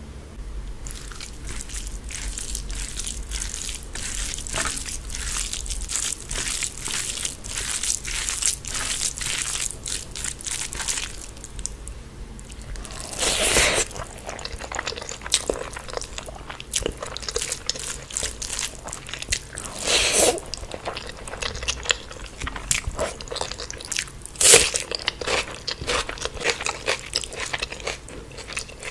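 Close-miked eating sounds of a mouthful of spicy egg omelette curry: chewing and biting, with rapid crisp mouth clicks for the first ten seconds or so. After that the chewing thins out, broken by three louder bites or slurps about halfway through, about two-thirds in and near the end.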